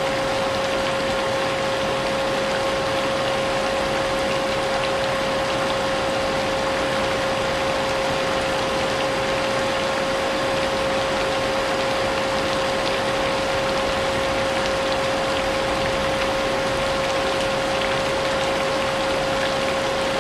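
Vacuum cleaner running steadily, its motor holding a constant whine at one pitch, mixed with a rain sound.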